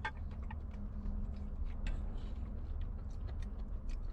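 Light scattered clicks and taps from eating hotpot, over a steady low hum.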